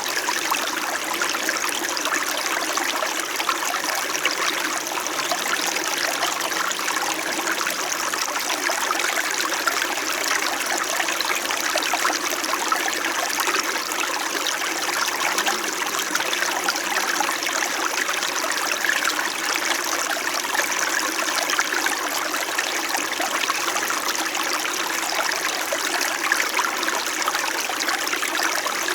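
Small mountain stream in winter flowing and gurgling over stones, a steady, even rush of water.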